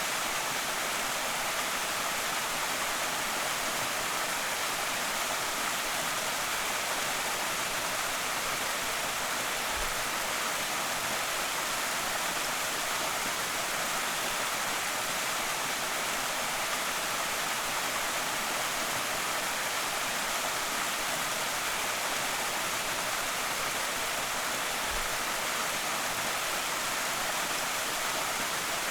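Creek waterfall pouring steadily: an unbroken, even rush of falling water, bright and hissy rather than deep.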